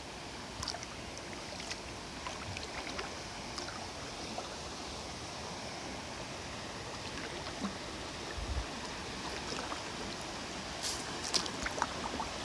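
Water sounds around a kayak on a river: a steady wash of moving water with small scattered drips and taps, a few sharper clicks about eleven seconds in.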